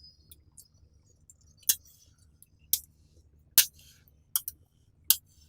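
Small magnetic balls clicking as they snap onto one another: about six sharp clicks, irregularly spaced roughly a second apart.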